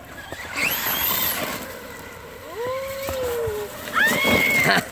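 Traxxas Rustler VXL RC truck's brushless electric motor whining up in pitch as it is throttled, three times. The last burst, near the end, is the loudest and is held at a high pitch, over a noisy hiss of tyres churning mud and water.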